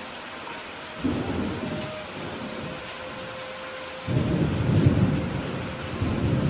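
Steady rain falling, with two rolls of thunder: a sudden low rumble about a second in that fades quickly, then a louder, longer rumble from about four seconds in.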